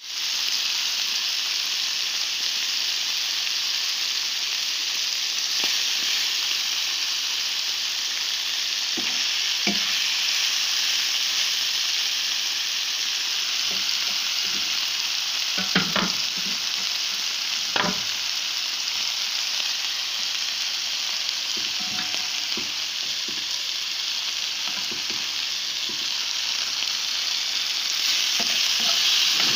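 Shawarma meat strips and merguez sausages sizzling steadily in hot oil on a black pan. A few short knocks come from the metal slotted spatula turning the meat against the pan, the clearest about halfway through.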